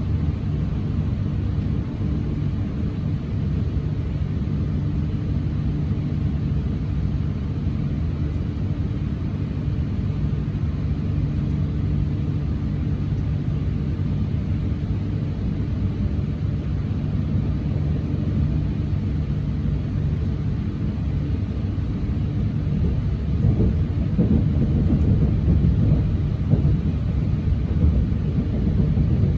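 Steady low rumble and hum of a Shinkansen train, growing louder and rougher about 23 seconds in.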